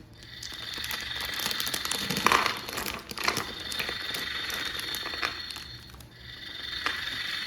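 Packaging crinkling and rustling with scattered small clicks as a remote-control toy car is unboxed.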